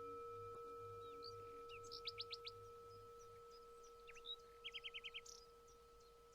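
Songbirds chirping faintly: single notes, a quick run of five chirps, then a rapid trill of about six notes. Under them the steady, slowly pulsing hum of a struck singing bowl fades away.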